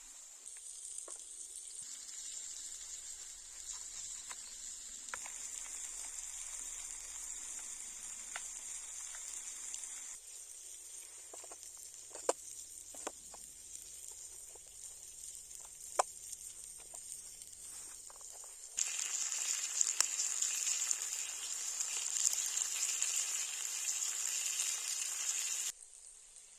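Meat sizzling on a hot stone over a fire: a steady high hiss with scattered sharp pops and crackles. The sizzle grows much louder about two-thirds of the way through and cuts off suddenly near the end.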